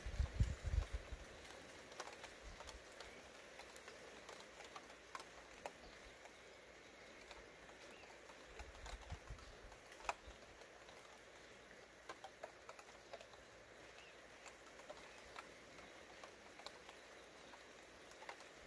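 Light rain pattering: scattered single drops ticking over a faint steady hiss, with a brief low rumble at the very start and again about nine seconds in.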